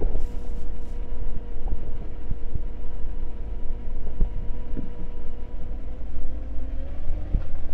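Vehicle engine running, a steady low rumble with a constant hum over it that rises a little near the end, and a few light knocks.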